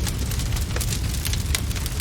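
Wood fire crackling: sharp pops and snaps several times a second over a steady low rumble.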